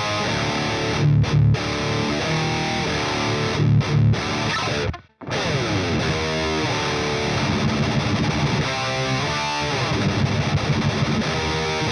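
Epiphone Widow Les Paul Custom electric guitar played with distortion: heavy riffing with low, loud chugs about one and four seconds in. The playing stops dead for a moment about five seconds in, then starts again with a downward slide into more chords.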